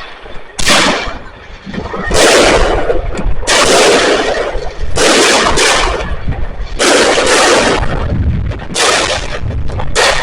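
Consumer firework battery (cake) firing shot after shot, about every one and a half seconds. Each shot is a loud bang spreading into about a second of noise.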